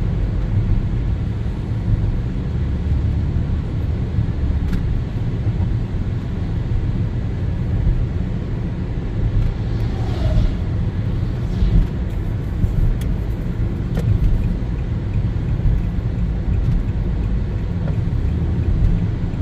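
Vehicle driving on the road: a steady low rumble of engine and tyre noise.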